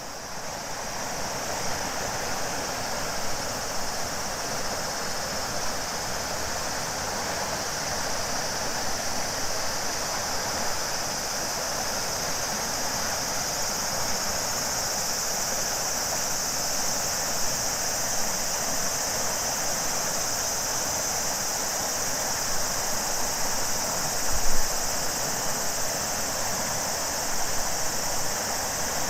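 Shimanto River water rushing steadily under a chorus of cicadas, whose high, steady drone grows stronger from about halfway through. A brief low bump comes about three-quarters of the way through.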